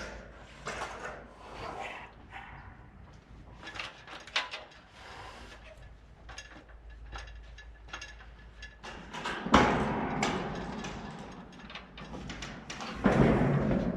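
Scattered knocks, creaks and rubbing of wood and sheet steel being handled at a roof build, with a louder long scrape about ten seconds in and another near the end.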